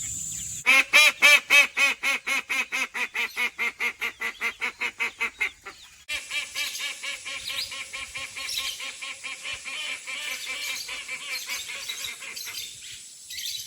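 Call ducks quacking loudly and without pause: first one duck's rapid run of quacks, about four a second, then after a sudden change several ducks calling over one another.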